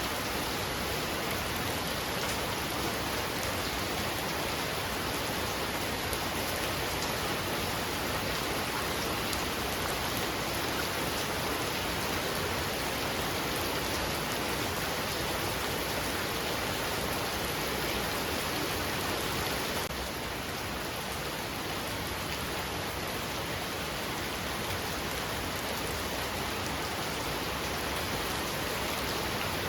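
Heavy rain falling steadily in a dense, even hiss, a little quieter from about two-thirds of the way through.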